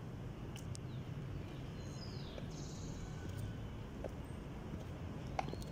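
Steady low background rumble, with a bird chirping: a couple of short downward-gliding chirps about two seconds in and another call at the very end, plus a few faint clicks.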